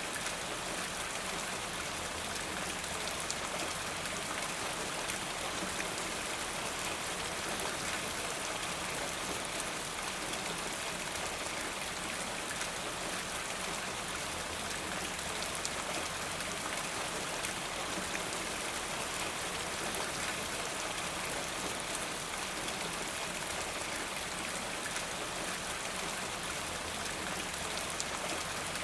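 Steady rain falling, an even hiss with fine drop patter and no change in intensity.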